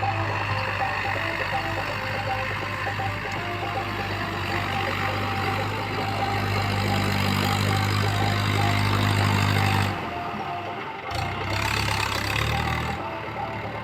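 Tractor diesel engine running steadily, its low hum strengthening from about six seconds in. It changes abruptly about ten seconds in to a weaker, uneven engine sound.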